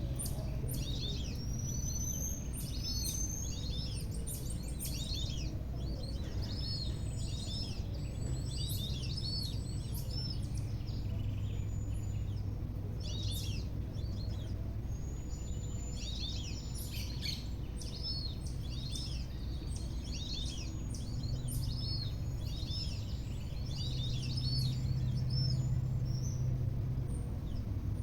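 Wild birds calling, a dense stream of short, high chirps and repeated arched notes from several birds, over a steady low rumble.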